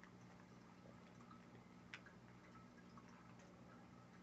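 Near silence: room tone with a steady low hum and a few faint small clicks, the clearest about two seconds in.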